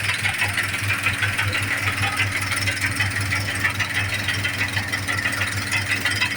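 John Deere 5078 tractor's diesel engine idling with an even, rhythmic clatter: the strange engine noise that appeared after its injection pump was refitted.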